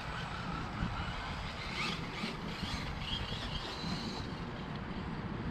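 Radio-controlled Tamiya dump truck's 3000kV brushless motor whining, with a short rising whine about two seconds in and higher whining tones over the next two seconds, over a steady low rumble.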